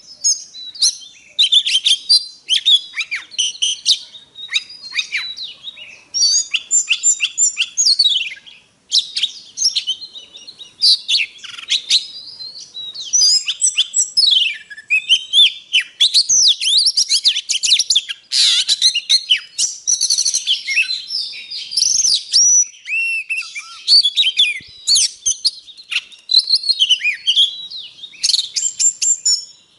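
Oriental magpie-robin singing: a fast, almost unbroken run of varied whistles, trills and chattering notes, phrase after phrase with only short gaps.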